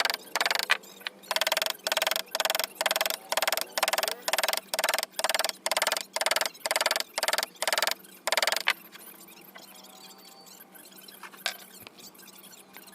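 Repeated strokes of a hand tool working wood, about three a second, each a short scraping burst, stopping about nine seconds in; a single click follows later.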